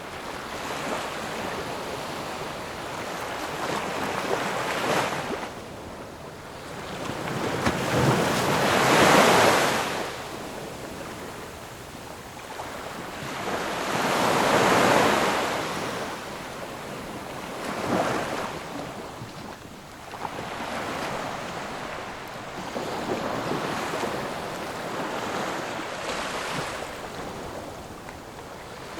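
Ocean surf: waves breaking and washing in, swelling and fading every few seconds, loudest about 9 and 15 seconds in.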